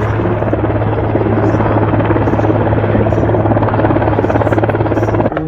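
Aircraft flying close by: a loud, steady drone with a low hum and rapid beating, cut off abruptly near the end.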